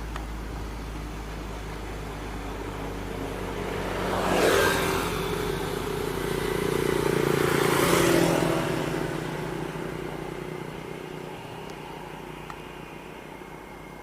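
Vehicle engines running steadily, with a vehicle driving past close by about four seconds in and another, longer pass around eight seconds, each swelling and fading; the engine sound then dies away.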